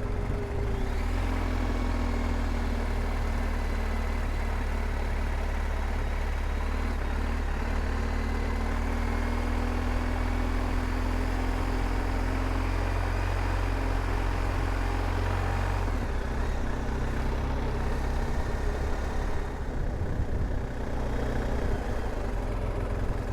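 Motorcycle engine running steadily under way, with road and wind noise over it. Its note drifts slowly in pitch and changes about two-thirds of the way through, as the speed changes.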